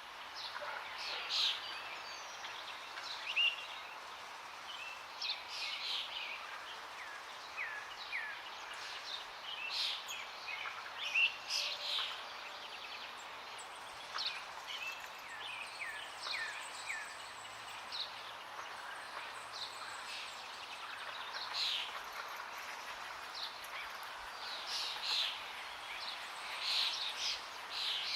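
Several birds chirping and singing in short calls, some sweeping down in pitch, over a steady hiss of flowing water.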